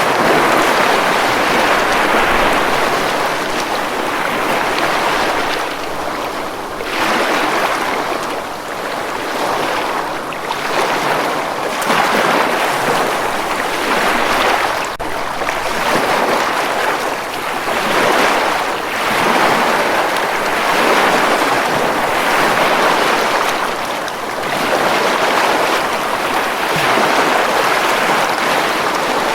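Ocean waves breaking on a beach: a continuous wash of surf that swells and eases every few seconds as each wave comes in.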